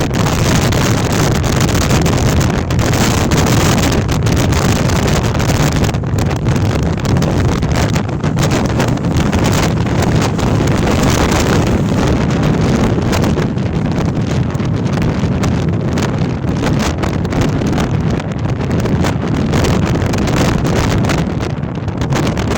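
Storm-force wind buffeting the microphone: a loud, continuous rush heaviest in the low rumble.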